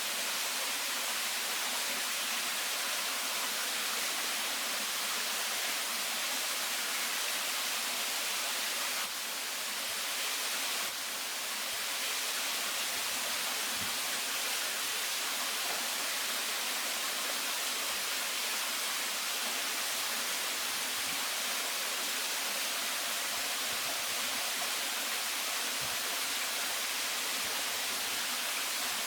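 Steady rush of a waterfall, an even hiss of falling water with little low rumble; it dips slightly for a few seconds about nine seconds in.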